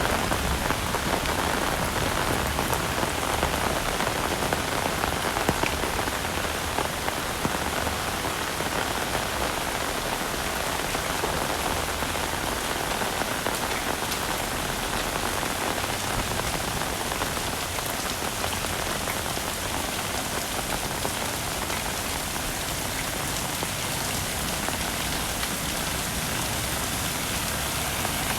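Heavy rain falling steadily, a dense, even hiss of drops with no letup, slightly louder in the first few seconds.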